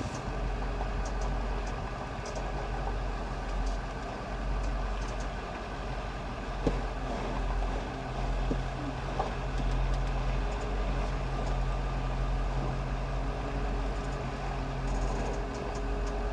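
Diesel pickup truck engine running steadily at low speed, heard from inside the cab.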